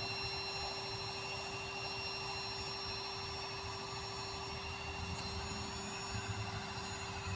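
Steady low engine rumble from a distance, swelling slightly about five seconds in, over a constant steady hum.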